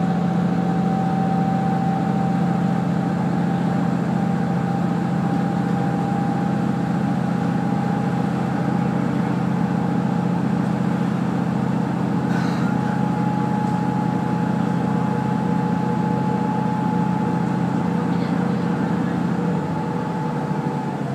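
Kazekko diesel railcar (a converted KiHa 48) running along the line: a steady low engine drone with a higher whine that slowly rises in pitch. The low drone drops away near the end.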